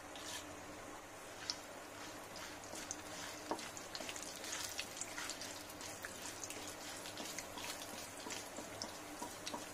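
Mustard seeds, chana dal and urad dal frying in hot oil in a non-stick kadai: a faint steady sizzle with scattered sharp pops and crackles as a wooden spatula stirs them.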